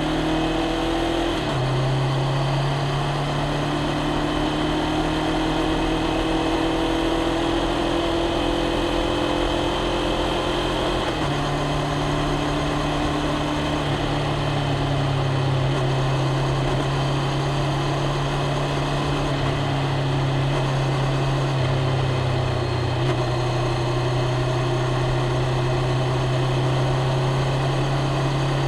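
Honda CBR500R's parallel-twin engine and exhaust running at a steady low engine speed while riding. The pitch steps up or down a few times, and a few fainter tones above it rise slowly.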